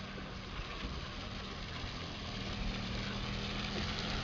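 A car running slowly along a wet, muddy street, its engine a low steady hum under a hiss that grows louder toward the end.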